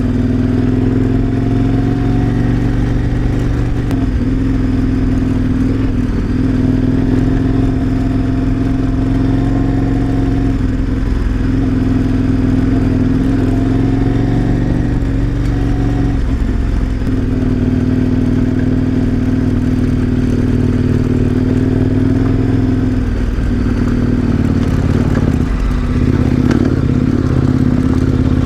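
KTM 1090 Adventure R motorcycle engine running steadily while riding along a dirt rail bed, its pitch dipping and recovering a few times with the throttle, mostly in the last third.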